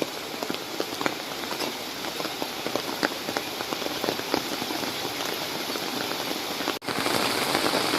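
Steady rain falling, with many individual drops ticking close by. After a brief break about seven seconds in, the rain comes back louder as the heavy downpour sets in.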